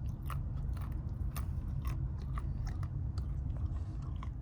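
A person crunching and chewing a crunchy snack, with irregular crisp crunches several times a second, over a steady low hum.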